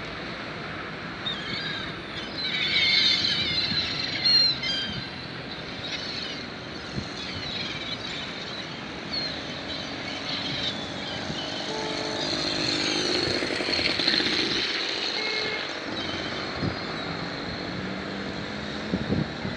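Seagulls squawking in a cluster of calls a couple of seconds in. Later a motor vehicle passes, growing louder and loudest past the middle.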